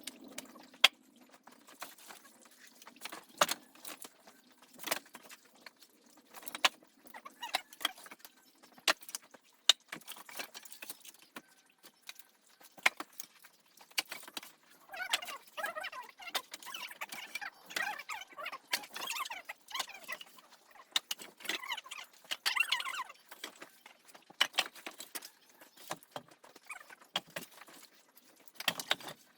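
Irregular clicks, knocks and light clatter of objects being handled, with a stretch of scraping and rustling about halfway through.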